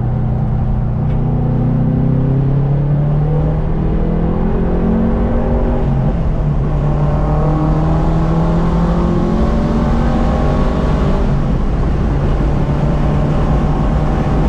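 Subaru EJ257 turbocharged flat-four in a 2.5 RS accelerating hard, rising in pitch, with an upshift about six seconds in, then pulling up through the revs again and holding steadier near the end.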